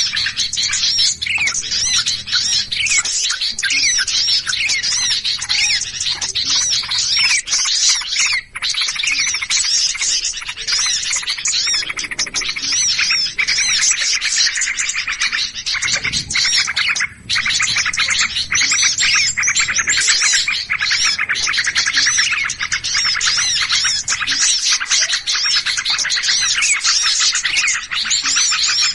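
Dense chorus of many small birds chirping and chattering at once, a continuous busy twittering of overlapping short calls. It is a bird-lure ('pikat') recording of agitated, noisy small birds, the kind played to draw wild birds in.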